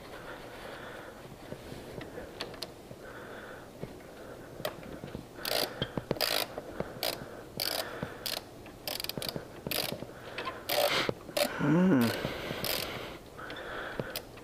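Socket ratchet clicking in irregular runs while working a bolt on a motorcycle's gear shift linkage, with a short wavering squeak near the end.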